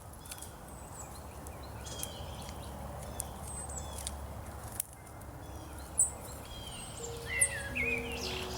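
Songbirds chirping and calling repeatedly in spring woodland, over a steady low hum. A few soft held music notes come in near the end.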